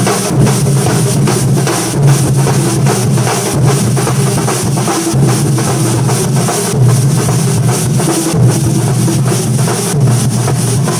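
Thambolam drum ensemble playing a fast, unbroken beat, with bass drums and snare drums struck together.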